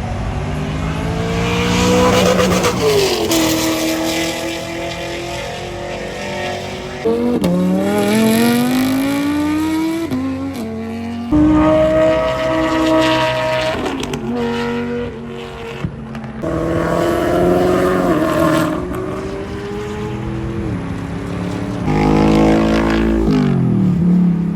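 Performance car engines revving and accelerating hard, the pitch climbing and then dropping sharply again and again, like shifts through the gears.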